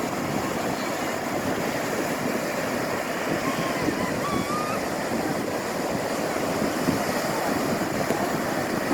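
Large storm-driven surf breaking and washing ashore in a steady, dense rush, with wind blowing across the microphone.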